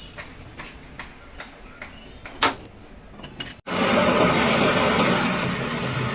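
Scattered light clinks and one sharper knock, like hand tools on metal engine parts. Then, after an abrupt cut, a loud steady rushing mechanical noise with a low hum takes over.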